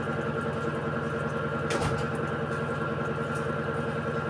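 Electrolux Essential Care 14 kg washing machine running with a steady motor hum. There is a single sharp knock a little under two seconds in.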